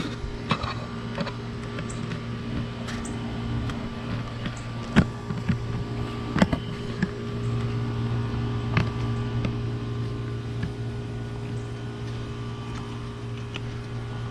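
A steady machine hum, like a fan or air conditioner, with scattered light knocks and clicks; the sharpest knocks come about five and six and a half seconds in.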